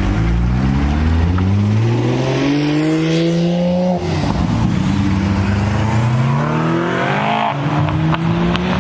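A car accelerating hard, its engine note climbing in pitch through the gears, with two upshifts, one about four seconds in and one near seven and a half seconds.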